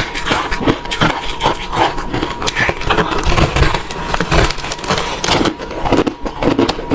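Refrozen crushed ice being chewed: a dense, irregular run of crisp crunches and crackles.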